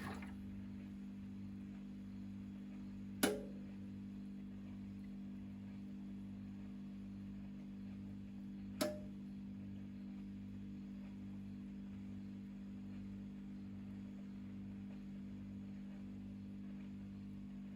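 Whirlpool top-load washing machine standing still after its final spin: a low steady hum, with two sharp clicks about five and a half seconds apart.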